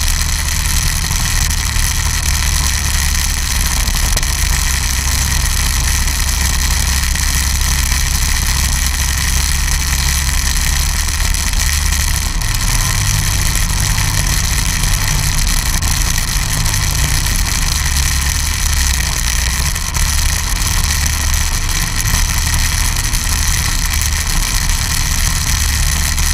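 Snowmobile engine running steadily, with a strong low hum that wavers a little about halfway through.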